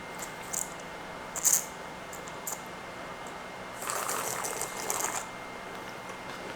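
A spoon clinking against a cereal bowl a few times, the loudest clink about a second and a half in, then just over a second of eating noise from the cereal and milk about four seconds in.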